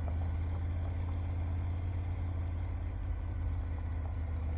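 Motorcycle engine running steadily at low revs, close to idle, with a constant low hum.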